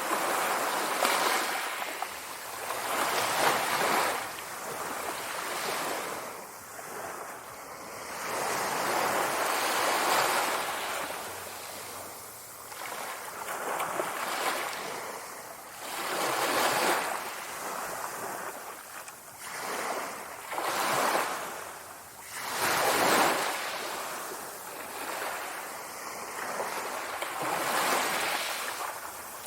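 Sea waves breaking and washing ashore. The surf swells and falls away every two to four seconds.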